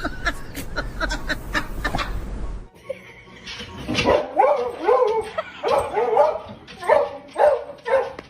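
A dog making a string of whining, yowling calls that bend up and down in pitch, starting about halfway through and going on to near the end. Before that, a stretch of sharp clicks and knocks over a low rumble that stops suddenly.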